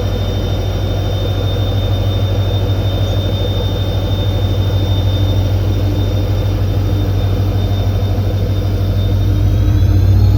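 WDP4D diesel locomotive running with a steady deep hum and a thin high whine above it; near the end the whine rises slightly in pitch and the sound grows louder.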